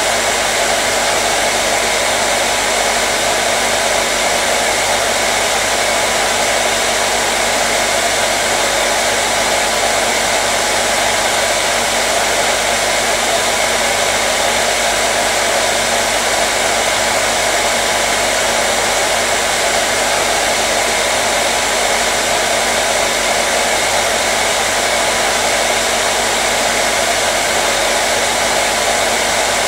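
Hair dryer running continuously at a steady speed: an even blowing rush with a faint steady hum underneath, unchanging throughout.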